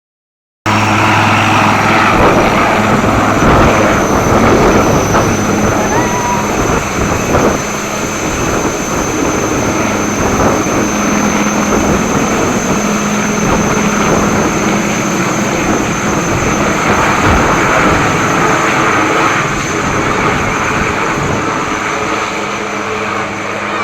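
Helicopter running steadily and loudly: a dense rotor and engine noise with a low steady hum and a high, thin turbine whine over it.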